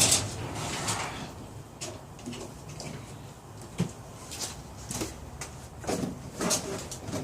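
A string of light knocks and clunks at uneven spacing, a dozen or so, as a homemade wagon is shifted and tried against a bike for fit.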